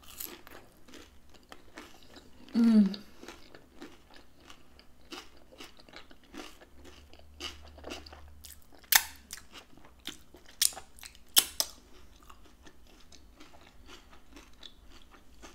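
Close-miked chewing of a crisp fried taco empanada, with many small crunches and mouth clicks. A short hum of the voice comes about three seconds in, and three sharp, loud crunches come between about nine and eleven and a half seconds.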